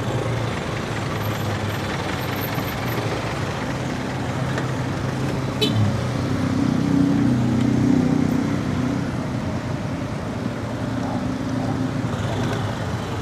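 Road traffic noise, a steady hum. A motor vehicle's engine drone swells as it passes, loudest about eight seconds in, with a brief sharp click just before.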